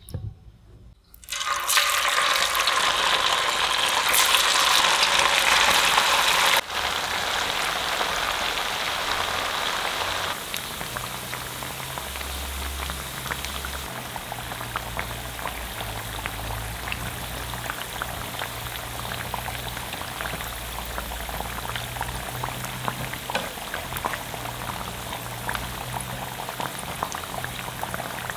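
Potato sticks coated in potato starch deep-frying in hot oil in a frying pan. A loud, vigorous sizzle starts about a second in, then settles into a steadier sizzle with many small crackles and pops.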